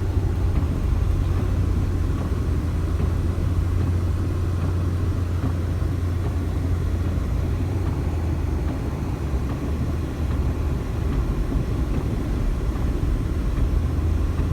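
Steady low rumble inside a moving car's cabin: engine and road noise.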